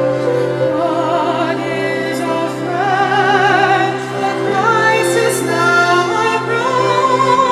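Music: voices singing with vibrato over a long-held low accompaniment note.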